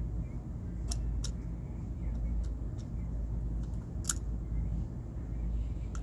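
Handling of a small airsoft pistol magazine: a few sharp little clicks, the loudest about a second in, just after, and at about four seconds, with fainter ticks between, over a steady low rumble.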